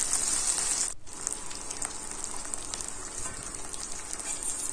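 Onions, garlic and ginger paste sizzling in hot oil in a kadai, stirred with a metal spatula. About a second in, the sizzle drops abruptly to a quieter hiss with scattered crackles.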